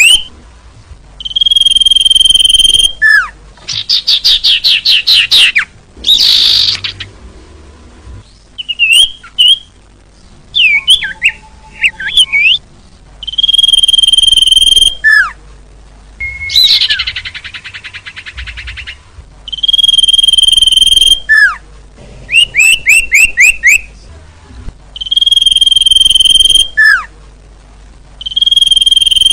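Recorded bird-lure call played in a loop: loud held whistle notes alternating with quick runs of falling chirps and buzzy trills, the same sequence repeating every few seconds. It is a lure call meant to draw small birds closer.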